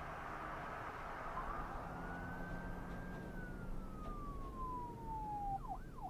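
Emergency vehicle siren: a long wail that rises, holds, then slowly falls, switching to quick yelping sweeps near the end, over the steady road and engine noise of a moving car.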